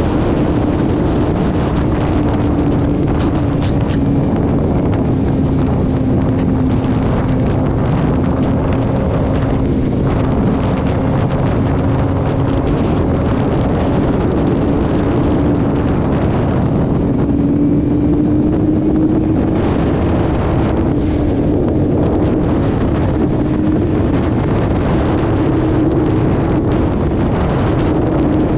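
Vehicle engine holding a steady highway cruise under heavy wind rush on the microphone; the engine note dips slightly and then climbs again past the middle.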